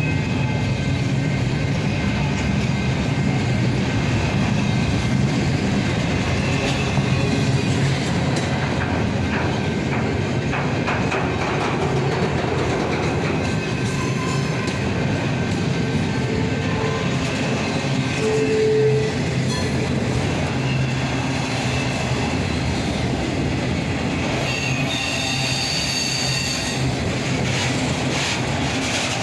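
Freight train of intermodal cars rolling past: a steady rumble of steel wheels on rail with clicking over the joints. Brief wheel squeals come through now and then, with higher squeals near the end.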